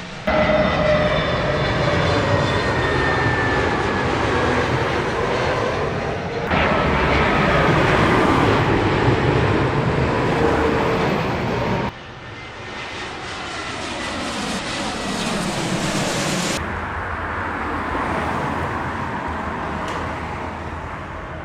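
Jet airliners passing close by at low altitude: loud engine noise with whining tones that fall in pitch as each aircraft goes past. The sound changes abruptly three times, where clips are cut together.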